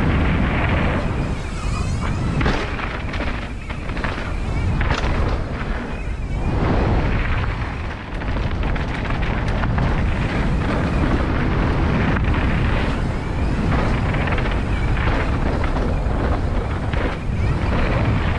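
Heavy wind rumble and buffeting on the microphone, with the hiss of tyres on a dirt trail, as a mountain bike rides fast downhill.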